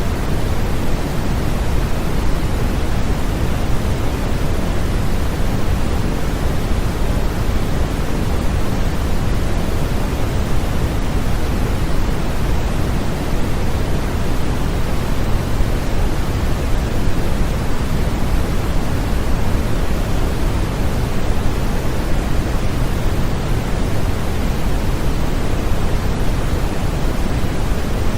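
Continuous white noise played as a baby sleep aid: a steady, unchanging hiss, fuller in the bass than in the treble.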